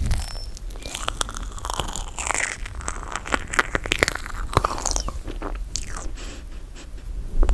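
Close-miked chewing of toasted marshmallow, with many sharp, sticky mouth clicks.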